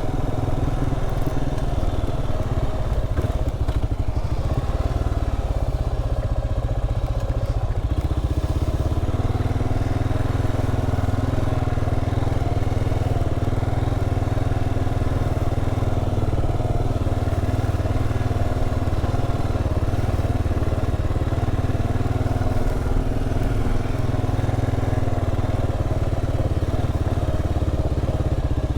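Kawasaki KLR 650's single-cylinder four-stroke engine running steadily under way. Its note shifts about eight seconds in.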